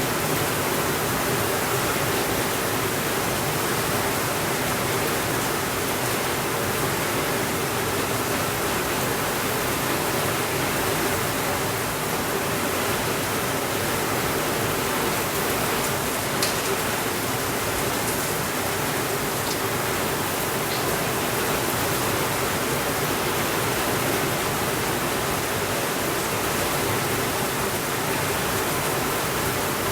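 Steady rainfall, an even hiss with no change in level. A few faint clicks come about halfway through.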